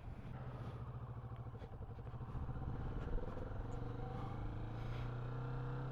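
Kawasaki Vulcan S 650's parallel-twin engine running at low revs, a steady note that creeps slightly higher in pitch over the second half.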